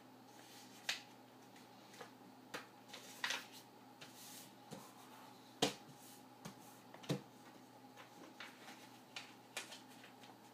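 A sheet of paper being handled, folded and creased by hand: scattered sharp crackles and taps, about a dozen, the loudest a little past halfway. A faint steady hum lies underneath.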